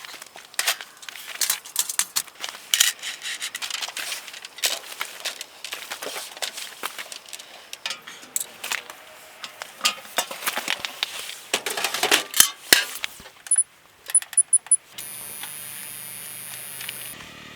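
Hard objects being handled, making a quick run of sharp clicks and clinks. Near the end come a few short high beeps, then a steady hum for about two seconds.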